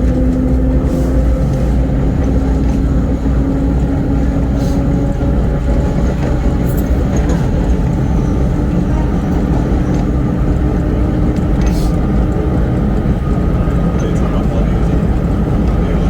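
Vintage R1-R9 subway cars running along the track, heard from on board: a steady, loud rumble of wheels on rail with a low motor hum in it and a few scattered clicks.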